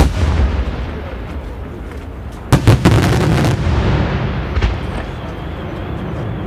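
Daytime fireworks shells bursting in the sky: a sharp bang at the start, then a cluster of several bangs about two and a half seconds in, with a lighter one a little later, over a continuous low rumble of reports.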